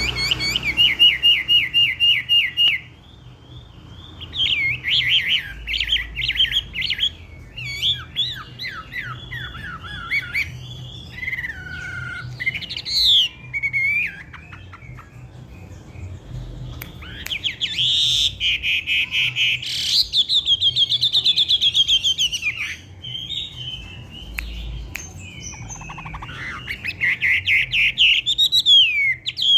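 A wambi songbird singing in full voice. It gives fast runs of repeated high chirping notes and sweeping whistles in bursts of several seconds, with two short pauses, one a few seconds in and one around the middle.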